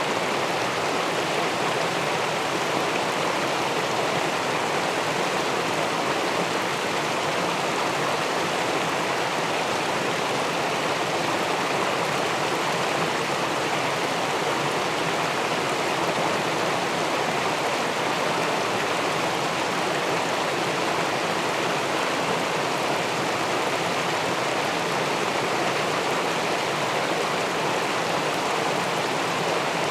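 River water spilling over a weir into the pool below, heard from a camera submerged in the pool: a steady, unbroken rushing.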